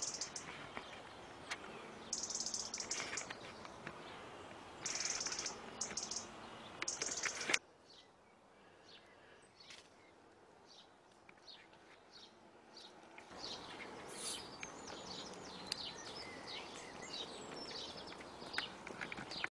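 Wild birds singing, many short high chirps and trills over outdoor background noise. The background drops suddenly about seven and a half seconds in and comes back up about thirteen seconds in.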